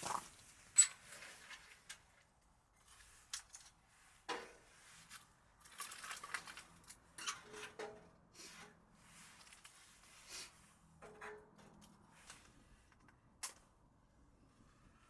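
Things being handled: an irregular scatter of light clicks, knocks and rustles, with the sharpest click about a second in.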